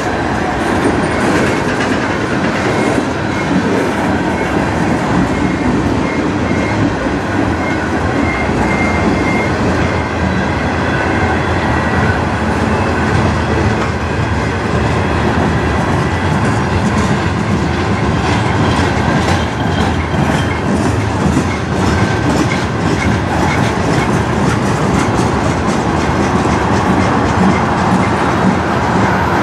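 Freight train tank cars and covered hoppers rolling past close by: a steady rumble of steel wheels on rail with clickety-clack over the joints. Thin high wheel-squeal tones come and go in the first half.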